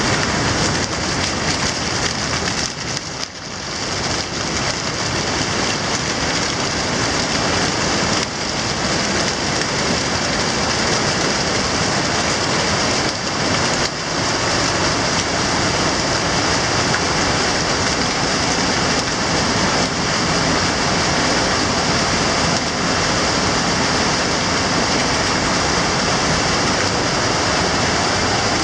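Loud, steady rush of water, with a brief dip in level about three seconds in.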